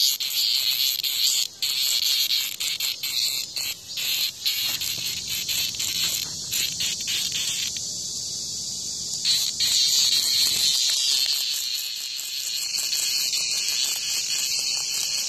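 Cicada buzzing: a loud, harsh, high-pitched buzz that stutters and breaks off repeatedly in the first few seconds, then runs on more steadily.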